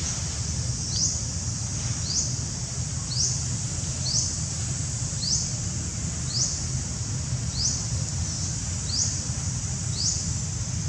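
Insects droning steadily in a high band, with a short rising chirp repeated about once a second and a low rumble underneath.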